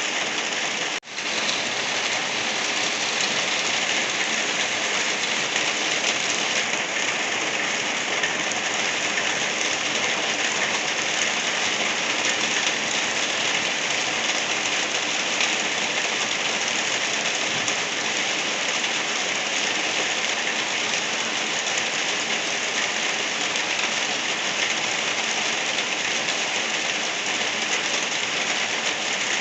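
Steady light rain falling, an even hiss with no pauses, broken once by a brief dropout about a second in.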